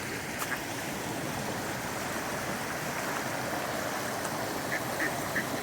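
River running high after rain: a steady rush of flowing water.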